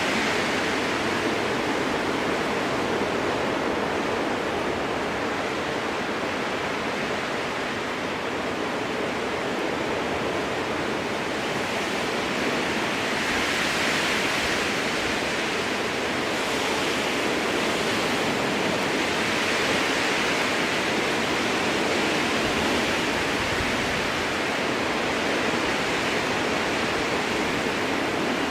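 Strong wind blowing through spruce trees: a steady rushing noise that swells a little about halfway through and again a few seconds later.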